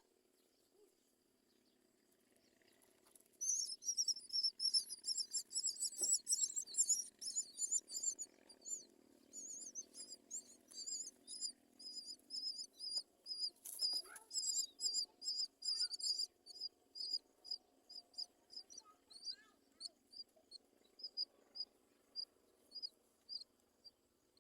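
Nestling birds chirping high-pitched: a dense run of rapid chirps starts a few seconds in, then gives way to repeated single chirps, about two a second, that thin out toward the end.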